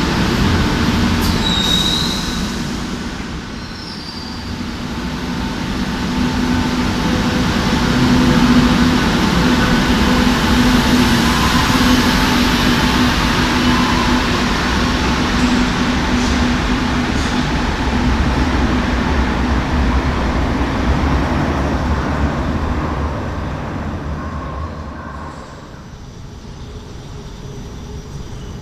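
Madrid Metro Serie 2000 train running through the station. The sound dips about four seconds in, builds to its loudest around ten seconds, then fades near the end, with a brief high wheel squeal about a second and a half in.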